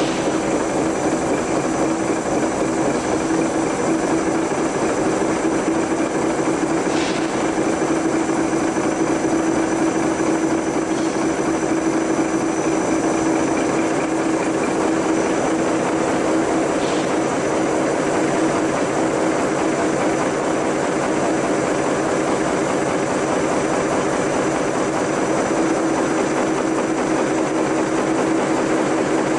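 Maxforce magnet-engine test rig running at a steady speed: a constant machine hum with a strong steady tone, and a few faint clicks.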